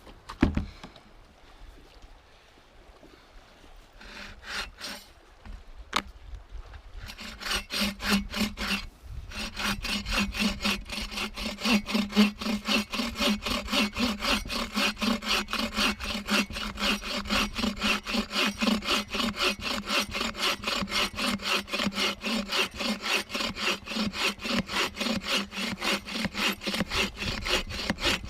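Hand saw cutting through wood with fast, even back-and-forth strokes that start about a quarter of the way in and keep going. Before that there is a single knock near the start and a few scattered scrapes.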